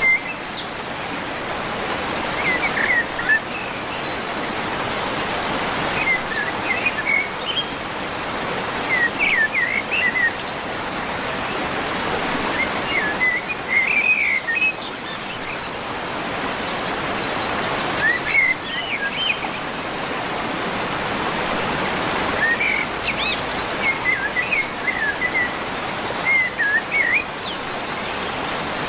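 Steady rain falling, with birds chirping in short bursts every few seconds.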